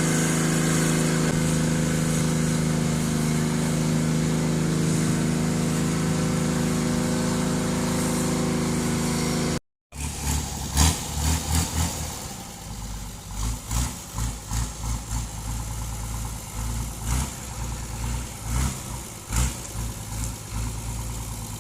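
Hino H06C naturally aspirated diesel engine of a cargo boat running steadily. After a cut about ten seconds in, it throbs lower and unevenly, with sharp knocks.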